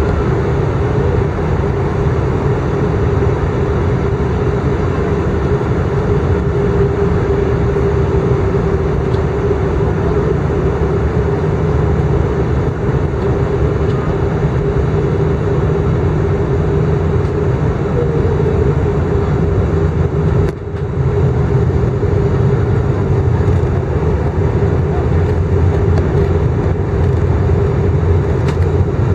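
Steady cabin noise inside an Airbus A319 airliner in flight: jet engines and airflow droning, with a steady hum running through it. The noise dips briefly about twenty seconds in.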